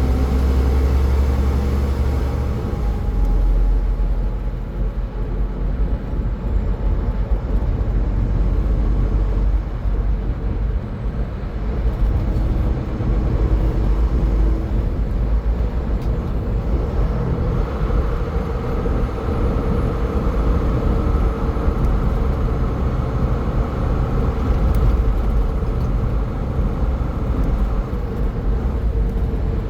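A car driving at highway speed: steady low road rumble from tyres and engine, with faint whining tones that come and go.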